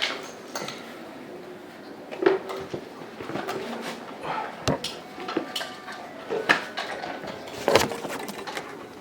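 Scattered metallic clinks and knocks of tools being handled while working on the refrigerator tubing, a few of them ringing briefly.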